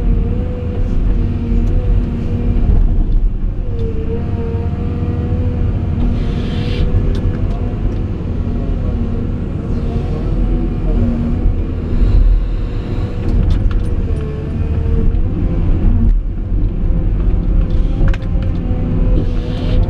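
Caterpillar 349E hydraulic excavator working: deep diesel engine rumble under a steady hydraulic whine that sags in pitch for a moment twice as the load comes on, with scattered knocks and scrapes.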